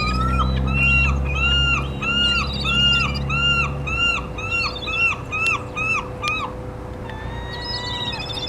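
A gull calling a rapid series of about fifteen clear, arched notes that quicken and shorten before stopping about six and a half seconds in. A low rumble sits underneath for the first half, and a fainter drawn-out call follows near the end.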